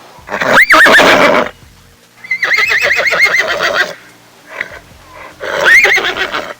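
An animal calling loudly three times, each call a second or more long with a quavering, wavering pitch.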